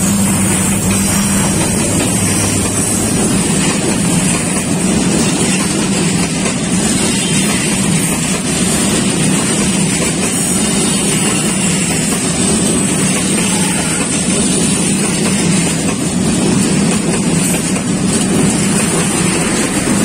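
Diesel locomotive passing close by, followed by its passenger coaches rolling past, making a loud, steady rumble of engine and wheels on rails.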